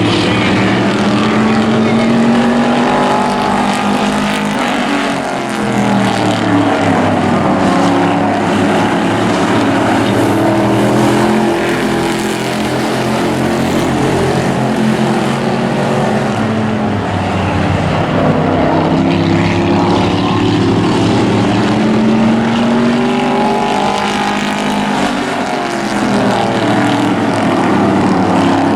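Several racing truck engines running hard together, their pitches repeatedly rising and falling as the pack circles the oval track.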